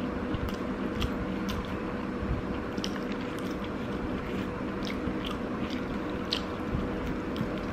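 Close-miked chewing of a mouthful of rice, with scattered short wet mouth clicks, over a steady background hum.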